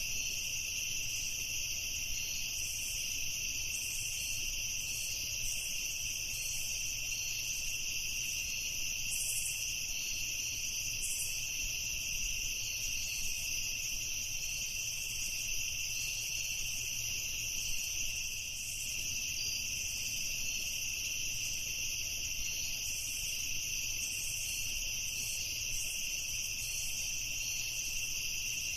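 Crickets chirping in a dense, continuous chorus, with two steady high-pitched bands of trilling and a faint low hum underneath.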